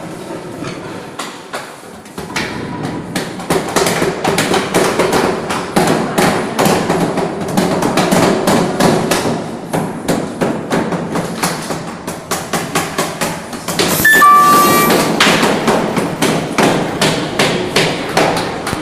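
Hammering as parts are knocked together, with many rapid overlapping blows that grow louder after the first few seconds. A brief high squeal rings out about fourteen seconds in.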